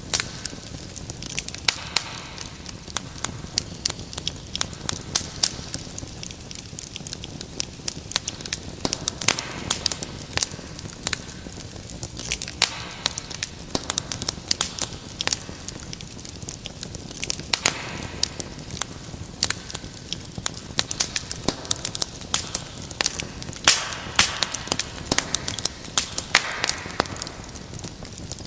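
Wood fire crackling: many sharp irregular pops and snaps over a steady low hiss of burning.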